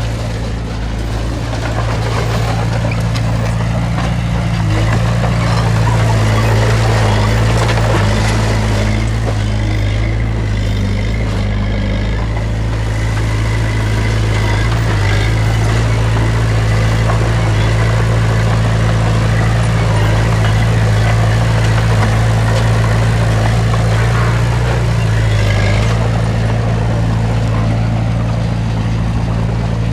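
Diesel engine of heavy earthmoving machinery running steadily under load, growing a little louder about five seconds in.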